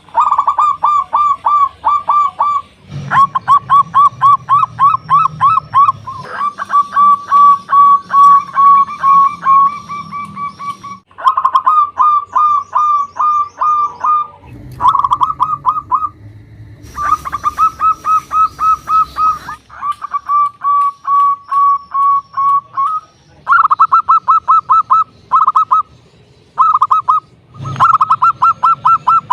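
Local zebra dove (perkutut) cooing: rapid runs of short, pulsing notes in bursts of a few seconds, with brief breaks between the runs.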